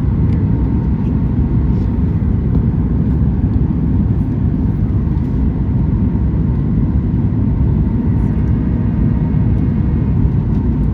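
Steady cabin noise inside a Boeing 737 MAX 9 in flight: its CFM LEAP-1B engines and the airflow make a constant low rumble, with a faint steady whine above it.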